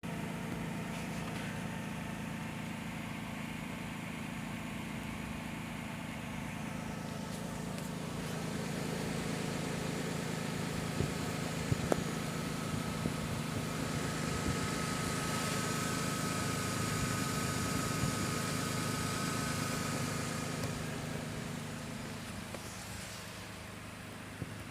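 Whistle from the fuel tank of a Lexus RX300, a thin steady high tone over the low hum of the idling engine, strongest past the middle and fading near the end. It persists with a new fuel pump and new filter fitted. A few short clicks near the middle.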